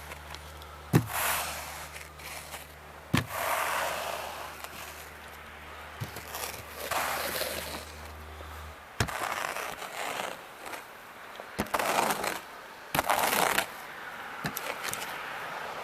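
Light powder snow being brushed off a car: sharp knocks, each followed by a swishing sweep of about a second, repeated every second or two. A low steady hum underneath cuts off about nine seconds in.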